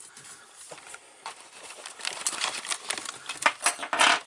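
Handling noise while rummaging for a drain pipe: quick clicks, light clatter and rustling, sparse at first and dense through the second half.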